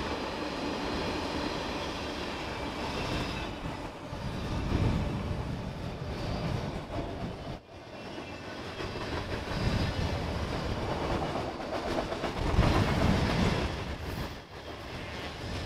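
Norfolk Southern mixed freight train's cars (covered hoppers, coil cars and autoracks) rolling past at speed, a steady noise of steel wheels running on the rails with some clickety-clack. The sound swells and eases as the cars go by, dipping briefly twice.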